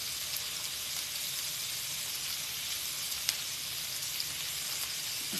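Sliced onions, tomatoes and green peppers sizzling on a hot stovetop griddle, a steady hiss, with one sharp click about three seconds in.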